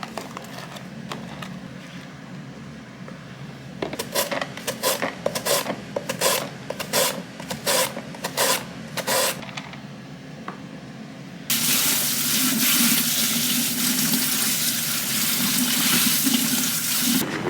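A run of about ten short, sharp knocks or scrapes, then a kitchen tap turned on full. Water runs hard into the sink for about six seconds and cuts off suddenly near the end.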